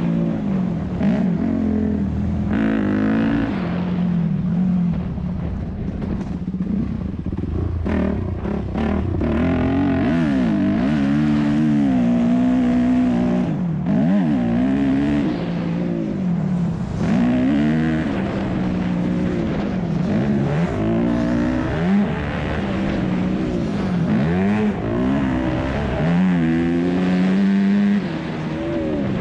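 2001 Yamaha YZ250F's four-stroke single-cylinder engine under race load, its pitch climbing and dropping over and over as the throttle is opened and shut.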